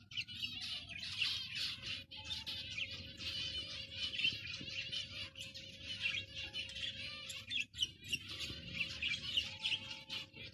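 A flock of caged zebra finches chirping and calling over one another in a dense, continuous chatter. A faint steady hum runs underneath.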